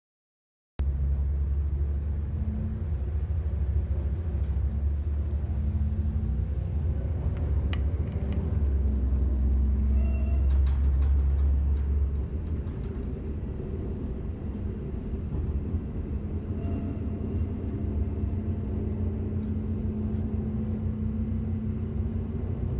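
Inside a diesel railcar in motion: a steady low rumble of engine and wheels on the track, cutting in after about a second. It eases off a little about halfway through.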